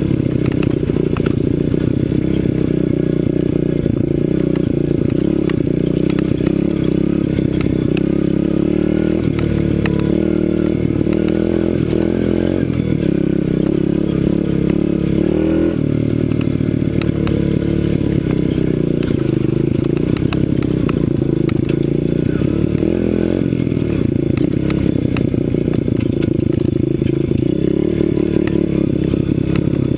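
CRZ 125 Pro pit bike's small four-stroke single-cylinder engine running on a dirt ride, the revs rising and falling with throttle and gear changes, with scattered rattles and clicks from the bike.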